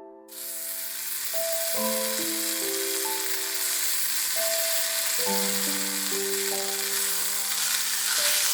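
Food sizzling in a hot frying pan, the hiss starting suddenly just after the start, under soft piano music.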